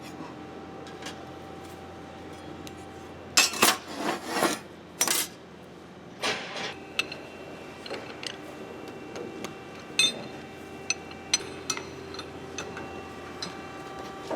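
Steel parts and tools being handled, clinking and knocking, with a cluster of loud rushing scrapes about three to five seconds in and scattered sharp metallic clicks after, over a steady machine hum.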